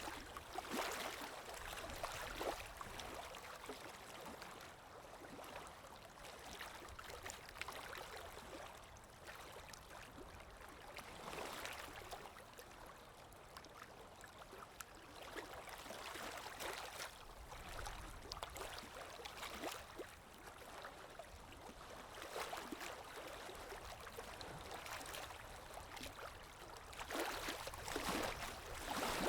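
Calm sea waves washing in and out, the wash swelling and easing every few seconds, loudest near the end.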